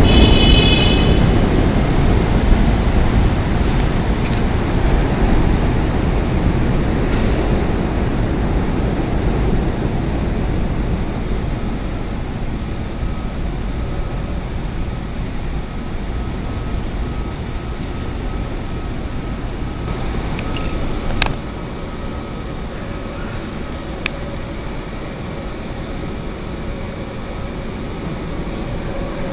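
CTA 'L' rapid transit train rumbling along the tracks at an elevated station platform, the rumble slowly fading away. A brief high squeal comes in the first second, and two sharp clicks come later.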